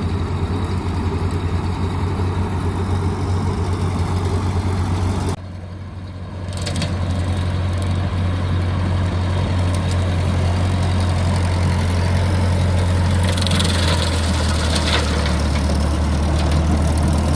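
A vehicle engine running steadily with a deep hum. The sound drops away suddenly about five seconds in and builds back up a second later.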